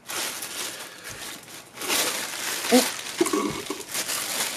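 Packaging crinkling and rustling as hands rummage through a parcel of parts, with a couple of short hums from a person a little past the middle.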